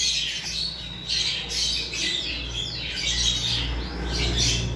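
Birds chattering with many quick chirps and squawks, over a steady low hum.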